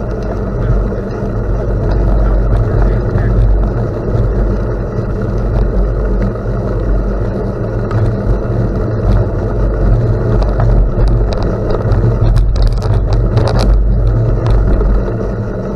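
Steady low rumble of wind buffeting the microphone together with road noise from moving along, with a few light clicks and rattles about three quarters of the way through.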